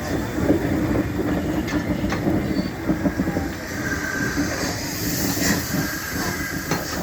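DB Class 23 steam locomotive rolling slowly along the track in reverse, its wheels rumbling, with a few sharp clicks over the rail joints.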